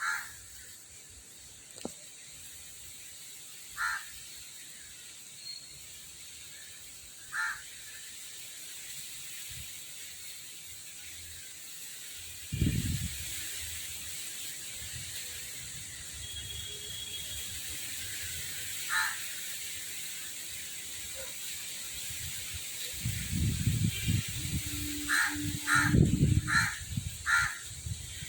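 Short harsh bird calls, single ones spaced several seconds apart, then four in quick succession near the end, over outdoor background noise with low rumbles about halfway through and again near the end.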